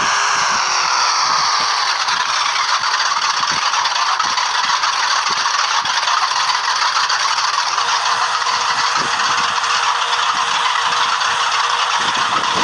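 Drag car engine running loud, its pitch dropping over the first two seconds, then a steady, harsh, rattling rush of noise.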